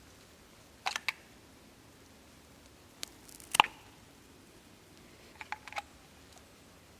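A few short, sharp clicks over a quiet background: a pair about a second in, a single louder one in the middle, and a quick run of three or four near the end.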